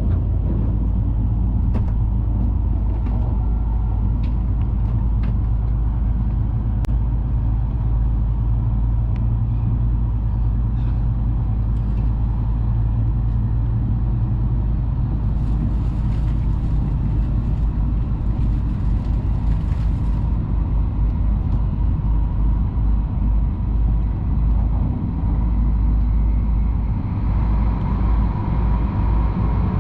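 Cabin noise of a Hayabusa Shinkansen train running at speed: a steady low rumble, with a rise of hissing about halfway through.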